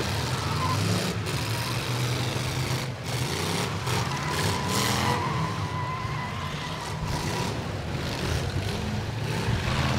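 Several V8 demolition derby cars running and revving hard together, a dense steady mix of engine noise with pitch rising and falling around the middle.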